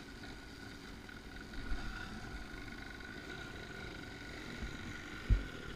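A faint, steady dirt-bike engine drone over a low rumble, with a single sharp thump about five seconds in.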